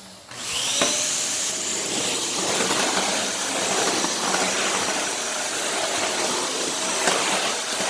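Dyson Cinetic canister vacuum cleaner switched on at the start, its motor whine rising as it spins up, then running steadily while vacuuming a tile floor.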